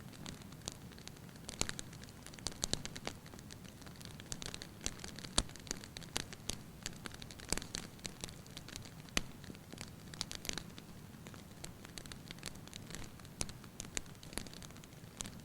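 Wood fire burning in a fireplace, crackling: irregular sharp pops and snaps, sometimes several in a second, over a steady low rush of the flames.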